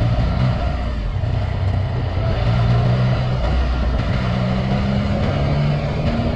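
2018 Yamaha XSR900's inline three-cylinder engine running through an Akrapovic carbon full exhaust while riding, its note holding steady and then stepping up or down several times as the throttle changes. Wind rushes over the microphone throughout.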